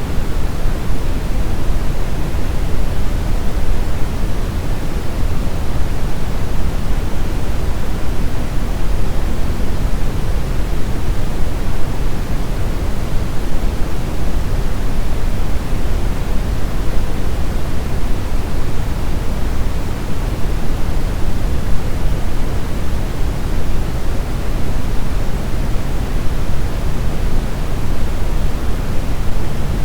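Steady brown noise: an even, deep rushing hiss, strongest in the bass and falling off toward the treble, with no change in it.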